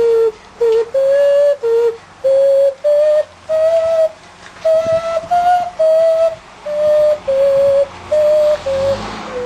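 A clay vessel flute or whistle playing a slow melody of short, pure, breathy notes, about a dozen of them. The pitch climbs through the middle and steps back down, and a burst of breath noise comes shortly before the end.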